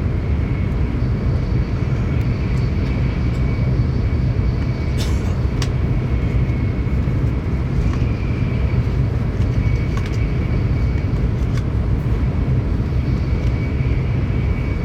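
Running noise of a Tokaido Shinkansen train at speed, heard from inside the passenger car: a steady heavy rumble with a faint steady high whine over it. A few faint clicks come through about five and six seconds in and again around ten seconds.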